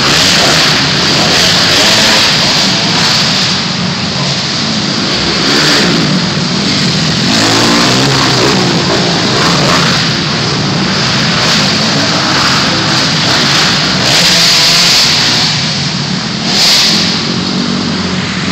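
Motocross dirt bikes running loud on a track, their engines revving up and easing off over and over.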